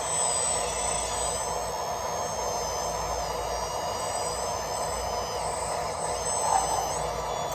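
Electric motors and plastic gearboxes of a radio-controlled construction model whining under load. The high whine steps up and down in pitch several times as the throttle changes, over a steady gear buzz.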